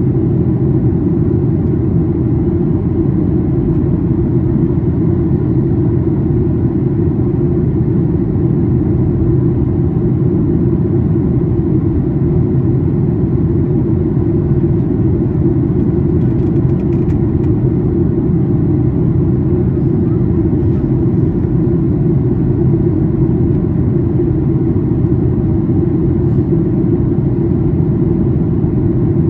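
Steady cabin drone inside a Boeing 737-800 during descent: a constant low rumble of airflow over the fuselage and the CFM56-7B engines, unchanging throughout.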